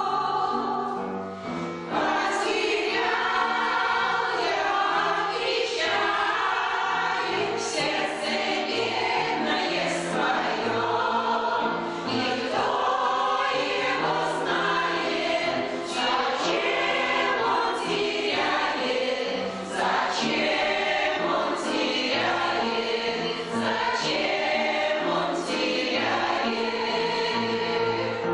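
Veterans' amateur choir singing a song in sustained phrases over an accompaniment.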